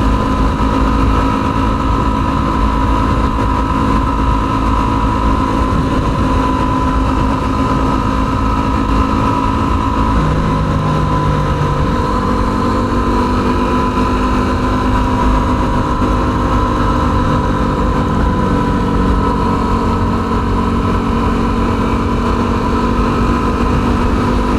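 Yamaha WR250R's single-cylinder engine running steadily under way, with constant wind and road noise. The engine note shifts about ten seconds in and eases a little lower later on.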